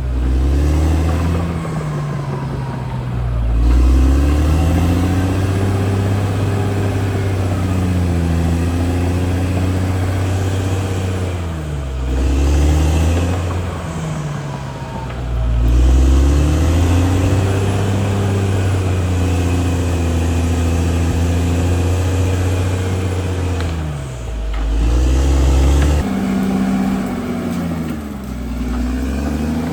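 CAT D6R XL bulldozer's diesel engine working steadily, its engine note dipping and climbing back up several times.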